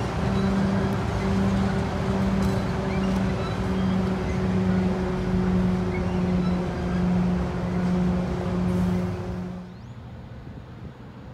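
Freight train of tank cars rolling past: a steady rumble with a low hum that pulses about every two-thirds of a second. Near the end it cuts off to much quieter open air.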